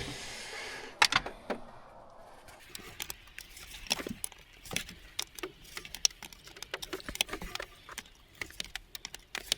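Irregular metallic clicks and clinks of hand tools and loose parts being handled while dismantling the engine's intake.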